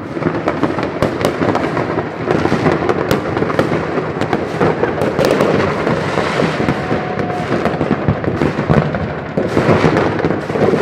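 Many fireworks going off at once: a loud, dense, continuous barrage of bangs and crackling with no break.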